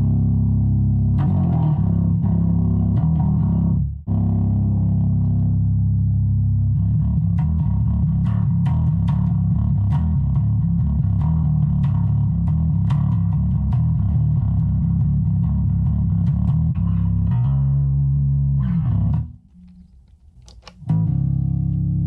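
Electric bass played through a Donner DBA-30 30-watt bass practice amp, with the amp's volume set low: a run of bass notes and riffs. The playing breaks off briefly just after four seconds, and again for about two seconds near the end before starting up again.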